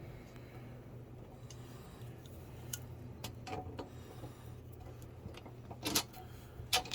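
Scattered light clicks and knocks from adjusting the threaded leveling feet on the legs of a metal sewing machine table, over a steady low hum.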